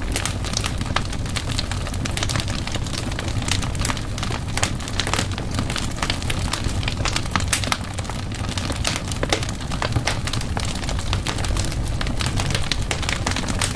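Wood fire crackling in a fireplace: a dense, irregular run of small pops and snaps over a steady low rumble of the flames.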